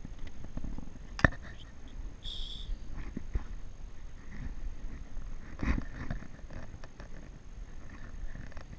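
Scattered knocks and handling bumps on a fishing kayak over a low steady rumble. There is a sharp click about a second in, a short high chirp a little after two seconds, and a heavier thump a bit before six seconds.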